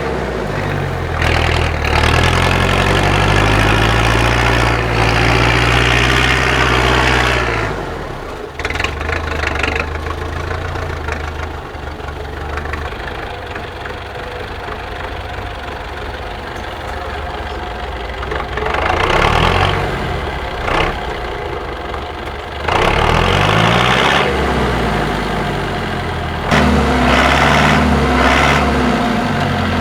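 IFA W50 4x4 truck's diesel engine revving hard in several long bursts, dropping back to a lower, steadier running between them while the truck works over rough off-road terrain.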